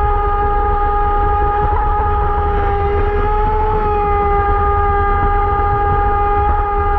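Radio-controlled boat's electric motor running at a steady high speed, a constant high-pitched whine over a low rumble.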